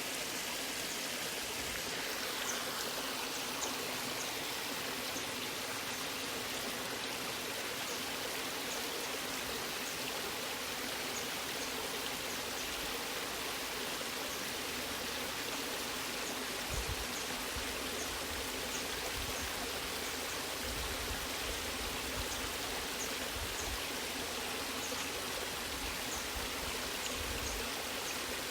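Waterfall: falling water rushing and splashing in a steady, even wash of sound, with faint droplet ticks on top and a few brief low rumbles in the second half.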